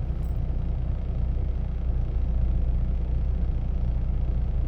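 Semi-truck engine idling, a steady low rumble heard from inside the cab.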